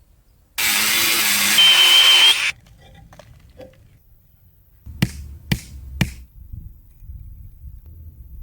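Building work with tools: a loud rasping burst of about two seconds with a brief high whine near its end, then three sharp knocks about half a second apart.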